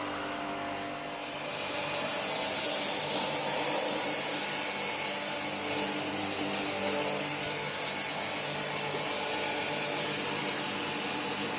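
Ice builder's air blower running: a loud, steady rushing hiss that swells up about a second in, over a low steady hum of refrigeration machinery.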